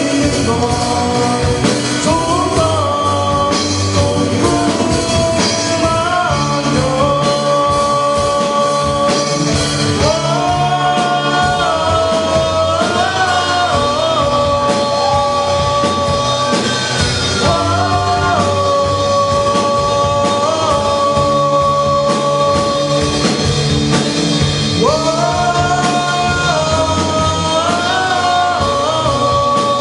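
Amateur band playing a rock-style song live, a lead voice holding long notes that step up and down in pitch over the band.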